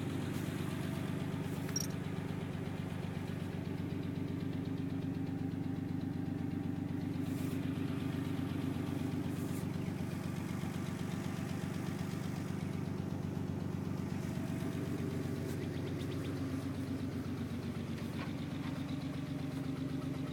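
Nissan 300ZX twin turbo's 3.0-litre V6 idling steadily.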